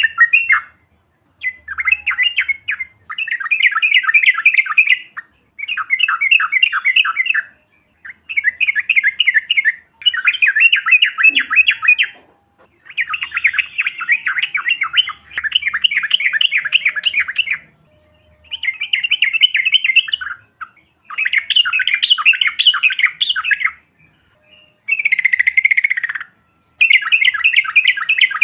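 Yellow-vented bulbul (trucuk) song in fast chattering, rolling phrases: about ten loud bursts of 1.5 to 3 seconds each, with short gaps between them. Near the end one phrase slides downward.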